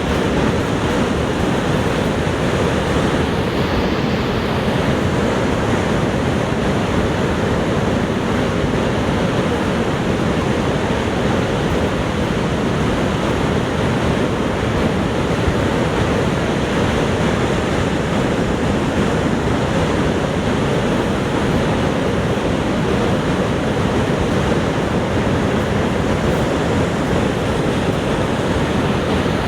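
Niagara Falls' roar: a large waterfall's steady, unbroken rush of falling water, heaviest in the low end.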